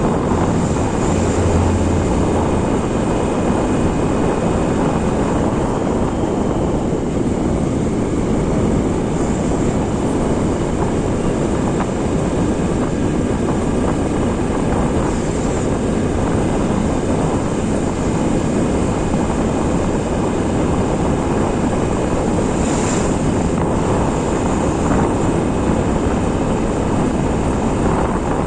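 Motorcycle riding along at a steady speed: the engine running with wind rushing over the microphone, a loud, even noise throughout.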